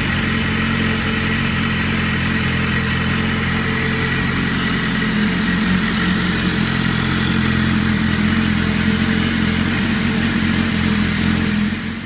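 2015 BMW S1000RR's inline-four engine idling steadily through its stock factory exhaust, a little louder in the second half.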